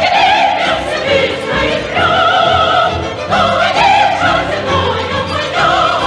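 Operatic singing with orchestral accompaniment: a voice holding long notes with a wide vibrato over a full orchestra.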